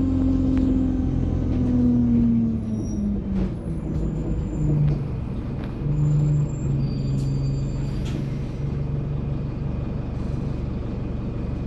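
Alexander Dennis Enviro 200 bus's engine and Allison automatic gearbox running, the engine note falling over the first few seconds as the bus slows, then settling to a lower steady drone. There are short hisses, one about eight seconds in.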